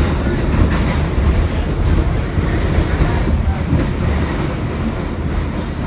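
Kawasaki R62 subway car running along the track, heard from inside the car: a steady low rumble of wheels and running gear with light rail clatter, growing slightly quieter toward the end.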